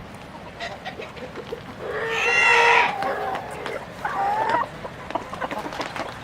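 Chickens calling: a loud drawn-out hen call about two seconds in, lasting about a second, and a shorter call about four seconds in.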